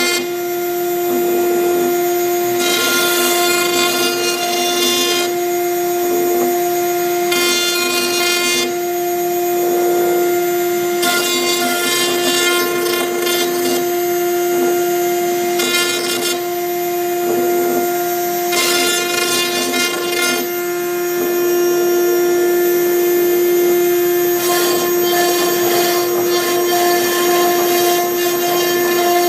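CNC router spindle running with a steady high whine while a V-bit engraves MDF. A rougher, denser sound comes and goes in stretches of a second or two, every few seconds, as the machine moves and cuts.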